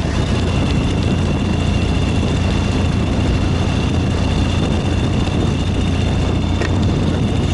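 Ural 750 motorcycle's flat-twin engine running steadily under way, with road and wind noise. A steady high whine sets in at the start and holds throughout.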